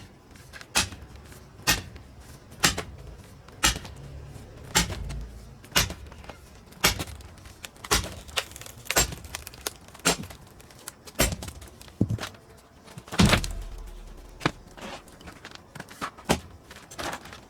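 Sledgehammer striking a steel splitting wedge driven into a pine round: sharp ringing blows at about one a second, with one heavier, longer blow near the end.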